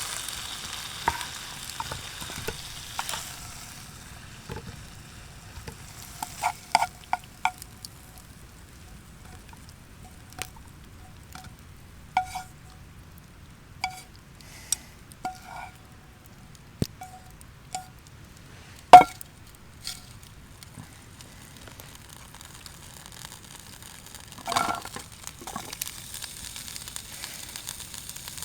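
Food sizzling in a pan, fading after a few seconds, then a series of light metal clinks with a short ring as a utensil taps metal cookware. One sharper, louder clink comes about two-thirds through, and a brief scraping clink follows near the end.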